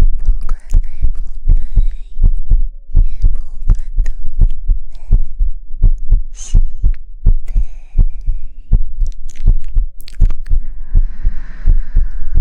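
Rapid, soft low thumps, about three to four a second, with faint breathy, hissy sounds above them: a soothing ASMR thumping sound.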